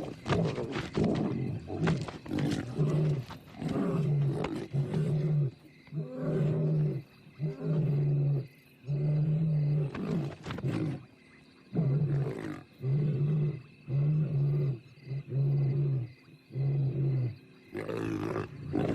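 Lions snarling and growling in a close confrontation. Harsh snarls come first, then from about six seconds a run of evenly spaced deep growls, roughly one a second.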